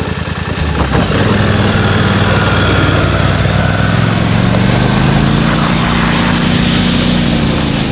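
ATV engine pulling away under throttle about a second in, its pitch rising a little and then holding steady as it tows a sled.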